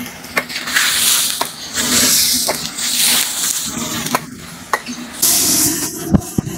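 Diced pork frying in a large wok, hissing and sizzling in surges as a long metal ladle stirs and turns it. The ladle clicks and scrapes against the wok several times.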